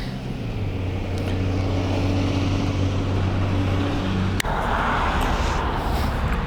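Battery-powered buffer running with a honeycomb pad and polishing compound on car paint, a steady motor hum. About four and a half seconds in there is a click and the motor's pitch changes.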